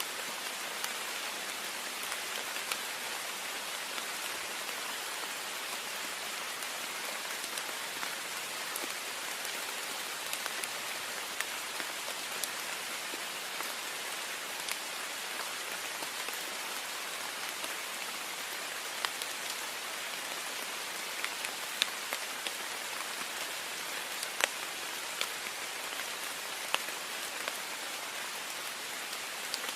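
Heavy rain pattering on a window pane: a steady hiss with sharp individual drop taps scattered through it, a few louder ones in the second half.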